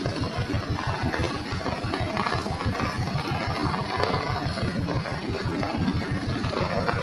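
Rain falling steadily, a dense, uneven patter of drops landing close by over a constant hiss.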